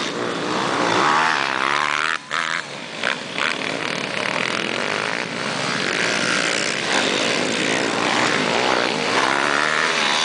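Several small pit bike engines racing, their overlapping notes revving up and down as the bikes accelerate and back off, with a short dip in level about two seconds in.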